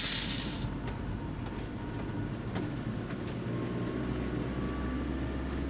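Steady low rumble of a vehicle driving along, with no change in pace.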